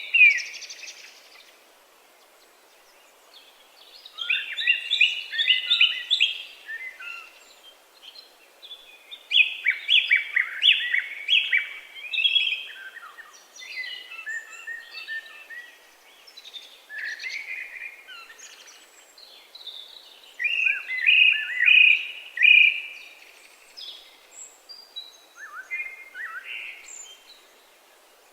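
A songbird singing loud, rapid song phrases of two to three seconds each, repeated after short pauses, with fainter chirps between them.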